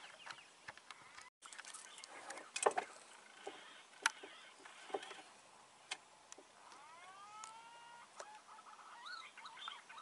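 Birds calling in the treetops: scattered short clicks and chirps, then a run of whistled notes that rise and level off in the second half. The sound drops out completely for a moment early on.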